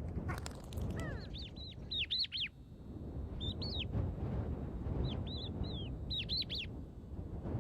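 A bird calling in quick runs of high, arching chirps, three bouts, over a low background rumble.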